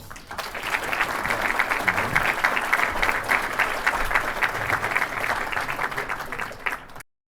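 Audience applauding, building quickly to a steady round of clapping that cuts off suddenly near the end.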